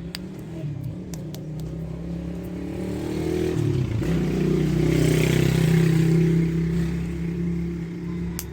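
A motor vehicle engine running, growing louder to a peak a little past the middle and then fading, with a dip in pitch a few seconds in. A few sharp clicks sound near the start and the end.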